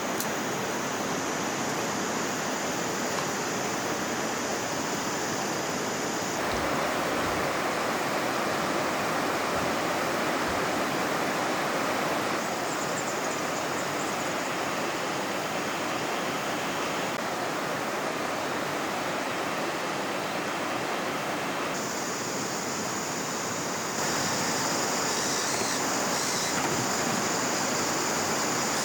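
River water running, a steady rushing that changes character abruptly several times, with a steady high-pitched hiss above it in some stretches.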